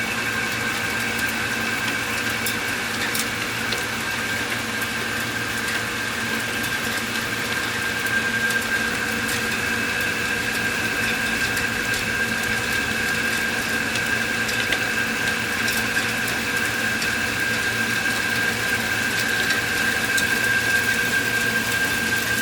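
Steady rain during a thunderstorm, an even hiss with scattered faint taps, and a constant high-pitched hum over it. No thunderclap is heard.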